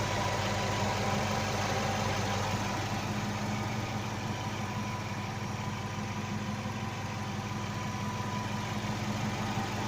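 Hyundai Coupe's 2.0-litre G4GC inline-four petrol engine idling steadily.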